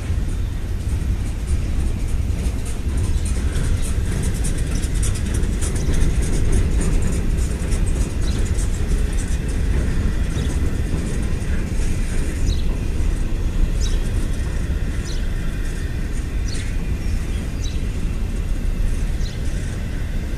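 Double-stack container freight train rolling past at street level: a steady low rumble of the cars on the rails, with many sharp high clicks and short high squeaks from the wheels.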